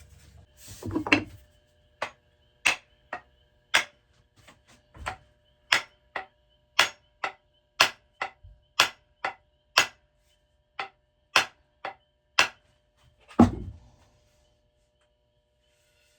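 Hammer blows on wood, most likely driving the walnut wedge into the kerf at the top of an axe handle. A heavy thud opens it, then comes a run of about twenty sharp strikes, one or two a second, and it ends with another heavy thud.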